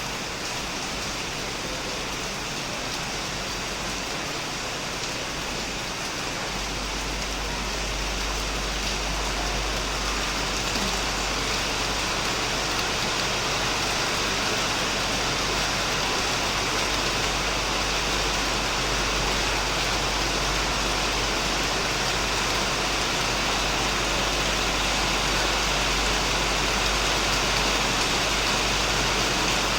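Heavy rain falling steadily on a shed, an even hiss of drops that grows a little louder after several seconds. A low steady rumble joins underneath about six seconds in.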